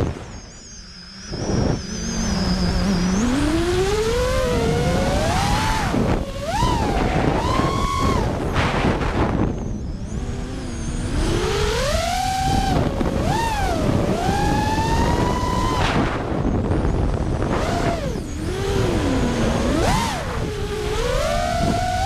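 FPV drone motors whining, the pitch rising and falling again and again as the throttle changes, over wind buffeting the microphone.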